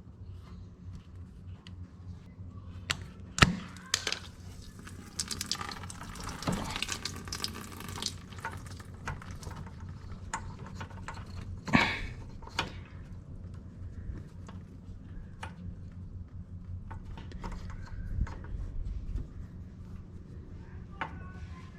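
Hands fitting a fuel shutoff valve and inline fuel filter into a small engine's rubber fuel line: scattered clicks and knocks of small parts and tools, with a rustling, hissing stretch a few seconds in and two sharper knocks, over a steady low hum.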